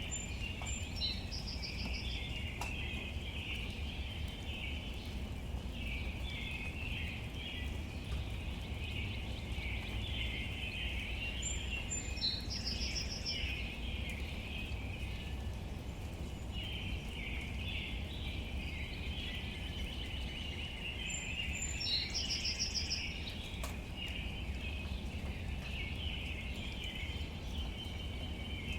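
Steady rain falling on leaves, with a low rumble underneath and a busy patter throughout. A bird sings the same short phrase three times, about every ten seconds: a high note and then a quick trill.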